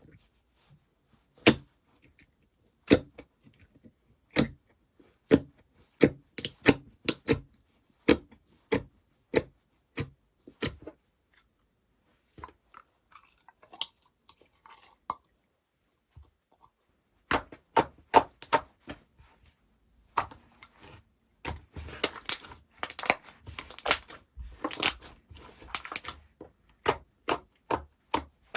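Slime being pressed and stretched by hand, giving sharp separate pops about once a second, then after a quieter stretch a denser run of crackling pops.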